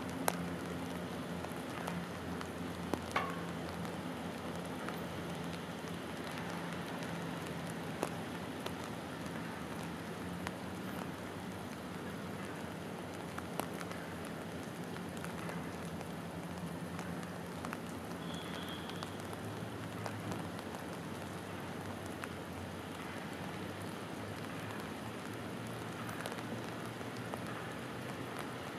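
Steady rain falling on open water, an even hiss with a few faint ticks, over a low steady hum.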